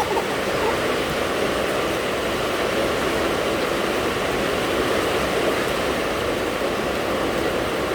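Steady rain, an unbroken even hiss of falling water with no pauses or changes.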